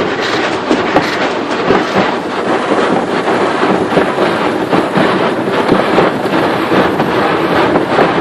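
Automatic car wash working over the car, heard from inside the cabin: a steady dense rushing with many quick, irregular slaps and knocks against the body.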